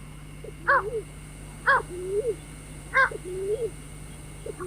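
White-breasted waterhen calling over and over, a two-part croaking call about once a second.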